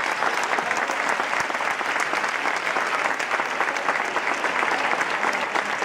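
Audience applauding, dense steady clapping of many hands.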